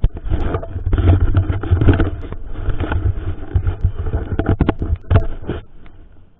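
Mountain bike rattling and jolting over a rough trail at speed, with wind buffeting the action camera's microphone as a heavy rumble. A run of sharp knocks from the bike hitting bumps comes about four and a half to five seconds in, and the noise eases near the end.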